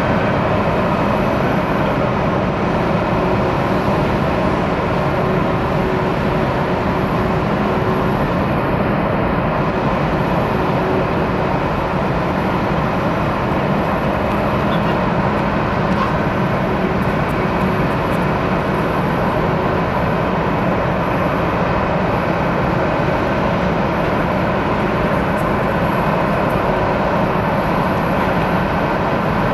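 Jet engines of a Boeing 767-300ER at idle thrust as it taxis in to the gate: a steady rushing drone with a thin high whine over it.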